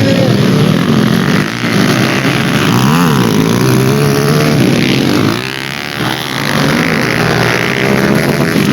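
Dirt bike engines revving hard, their pitch repeatedly climbing and dropping as riders accelerate and back off, with more than one bike heard at once. The sound eases a little past the middle.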